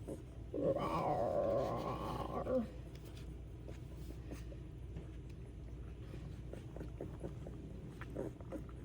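A young Cane Corso puppy cries once for about two seconds, a wavering whine that slides down at the end. It is followed by faint small clicks of puppies lapping milk.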